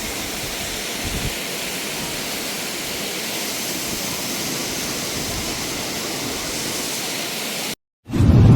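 Waterfall with a steady, even rush of falling water that cuts off abruptly near the end. A loud, sudden sound starts a moment later.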